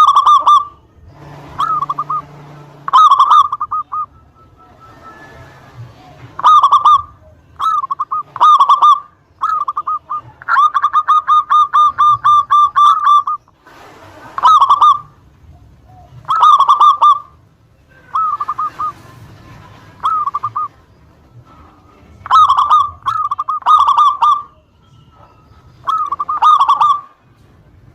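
Local zebra dove (perkutut) singing: a run of short, clipped coo phrases with brief pauses between them, and one longer, fast rolling phrase about halfway through. It is a loud, much-repeated song of the kind played as a lure to make other perkutut answer.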